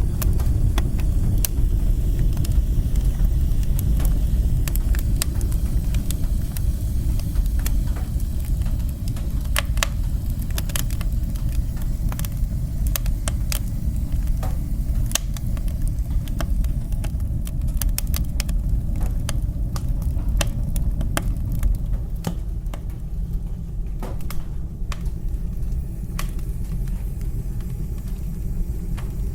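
Wood fire burning in a fireplace: a steady low rumble of the flames, with frequent sharp crackles and pops scattered throughout.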